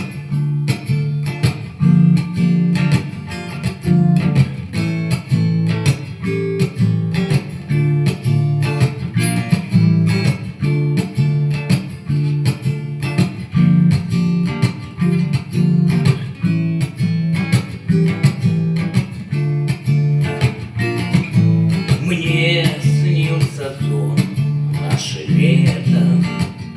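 Acoustic guitar strumming chords in a steady, even rhythm: the instrumental introduction to a song.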